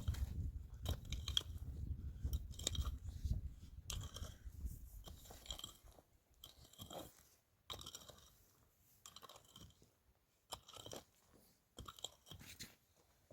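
Close-up crunchy chewing: a dense run of short crunches over a low rumble in the first half, thinning to separate crunches with short gaps in the second half.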